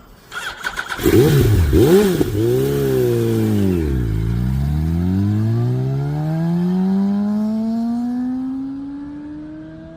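Yamaha R1 inline-four sport bike with a loud exhaust, blipped hard twice and then pulling away in one long acceleration, its pitch climbing steadily while the sound slowly fades.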